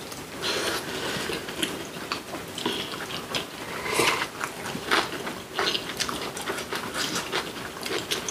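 Close-miked chewing and biting of two people eating braised kimchi and rice, with many short wet mouth clicks and smacks.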